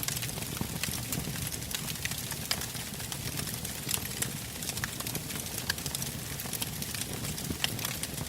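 Campfire of burning logs crackling: irregular sharp pops and snaps over a low steady rumble of the flames.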